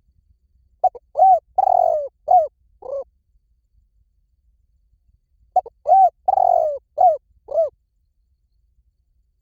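Spotted dove cooing: two phrases, each a short run of about five arched coos with a longer rolling coo in the middle. The first phrase comes about a second in and the second about halfway through.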